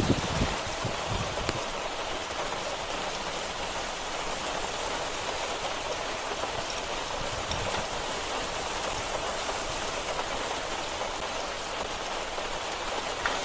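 Steady hiss of rain falling on hard surfaces, with a few short knocks near the start.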